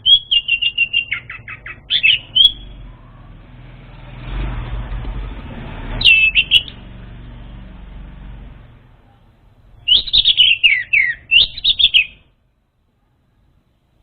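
Orange-headed thrush song: three bursts of rapid, varied whistled phrases, the first about two and a half seconds long, a short one about six seconds in, and a longer one about ten seconds in that stops abruptly. A soft rumbling hiss swells in the gap between the first two bursts.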